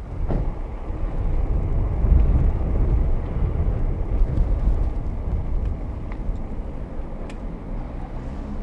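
A motor vehicle passing close by, its low rumble swelling over the first two seconds and then slowly fading.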